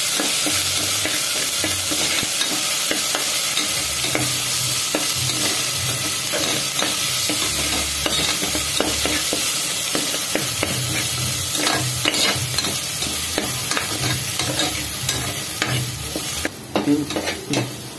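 Ginger-garlic paste frying in hot oil in an aluminium pressure cooker, sizzling steadily while a perforated steel ladle stirs and scrapes the metal bottom. The sizzle thins out near the end.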